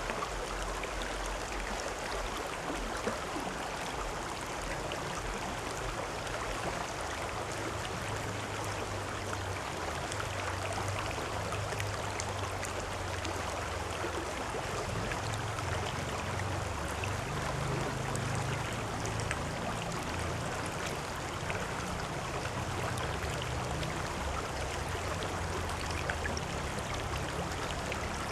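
A river or stream running steadily, water rushing and gurgling over rocks with a low rumble underneath.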